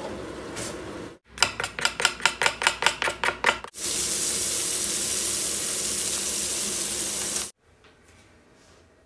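A quick run of sharp knocks, about five a second, then lamb rib chops sizzling loudly in a hot stainless steel frying pan for a few seconds before cutting off suddenly.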